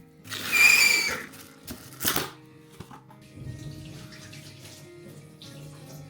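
Background music, with a short loud rush of running water about half a second in and a brief sharp knock about two seconds in.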